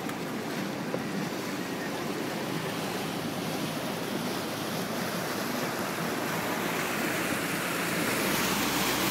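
Steady rushing noise of wind and water, growing slowly louder toward the end.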